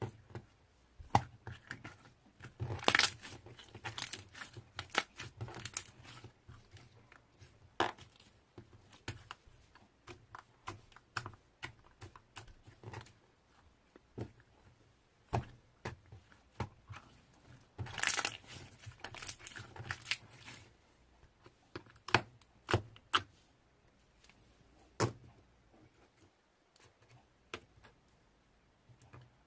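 Slime being squished and pulled by hand, making irregular sharp clicks and pops, with denser crackling runs about three seconds in and again around eighteen to twenty seconds.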